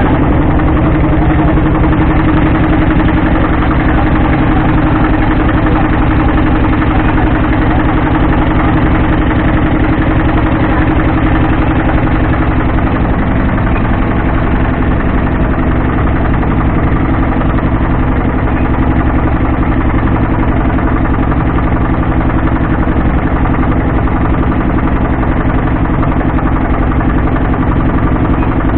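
A motorboat's engine running steadily and loudly, a constant low drone with no change in speed.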